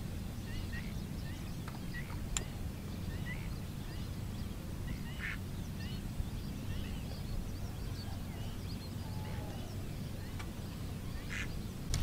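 Faint, scattered short bird calls over a steady low rumble.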